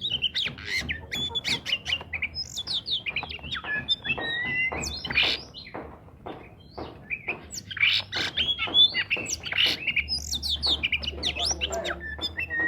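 Oriental magpie-robin (kacer) singing a fast, varied song of whistles, harsh chattering notes and quick rising and falling sweeps, with a brief lull near the middle.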